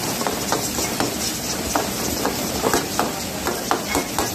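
Chicken and tomatoes sizzling in sheep-tail fat in a karahi wok, with a steady hiss, while a long metal ladle stirs them, scraping and clinking irregularly against the pan.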